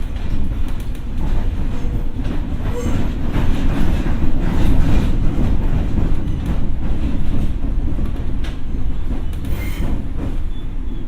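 Ex-Tokyo Metro 6000 series electric train running along the line: a steady low rumble of wheels on rail with irregular clicks over rail joints, growing louder about halfway through.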